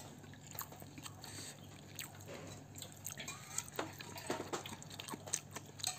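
Quiet eating sounds: chewing with small wet mouth smacks and clicks, scattered irregularly, over a faint steady low hum.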